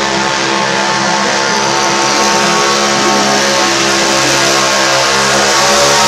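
Kohler Command V-twin engine of a pulling garden tractor running hard at high revs under load, a steady buzzing note.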